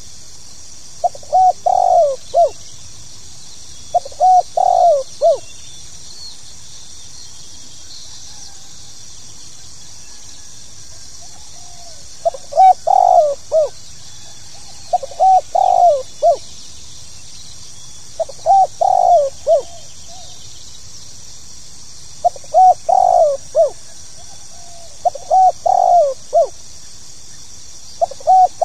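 Spotted dove (tekukur) cooing: a run of short phrases of a few notes each, repeating every two to three seconds, with a pause of about six seconds after the first three phrases. A faint steady high hiss runs underneath.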